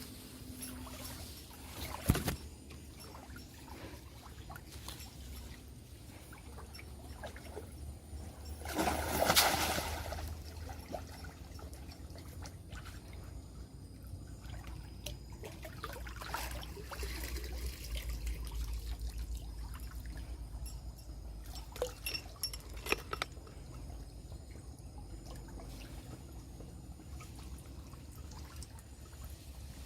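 Water trickling and pouring, with scattered small knocks, a sharp knock about two seconds in and a louder rush of water noise about nine seconds in.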